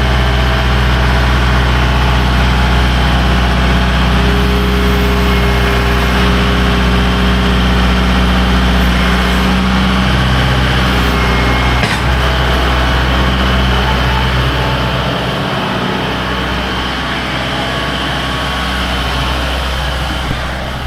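Loader tractor engine running steadily, with one sharp knock about twelve seconds in; the engine sound eases slightly in the last few seconds.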